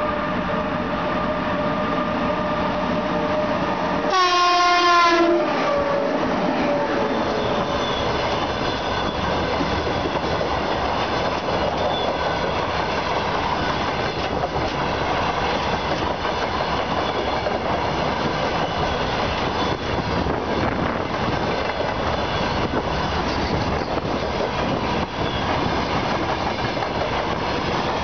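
2ES10 electric locomotive sounding a steady whistle tone, then about four seconds in one loud, roughly one-second blast of its typhon horn. After the blast the train runs past with a steady rushing noise and wheels clacking over the rail joints.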